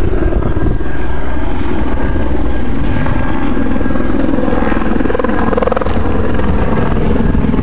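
Police helicopter circling overhead, its rotor beating in a steady, rapid pulse.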